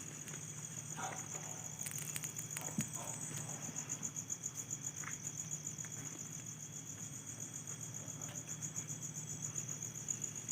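Insects trilling: a steady, rapidly pulsing high-pitched chirr, with a few faint clicks about two to three seconds in.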